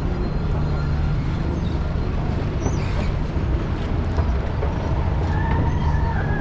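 Steady low rumble of vehicles, with a steady high whine that comes in about four seconds in.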